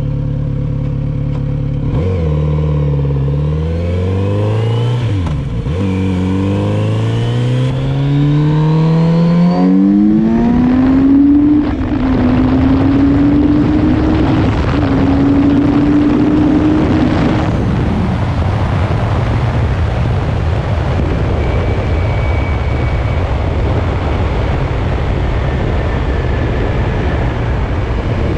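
Kawasaki Z900RS Cafe's 948 cc inline-four running steadily, then accelerating hard with its pitch climbing through the gears, with upshifts at about five and eleven seconds in. After that the revs level off and the engine fades under a steady rush of wind and road noise as the bike cruises at speed.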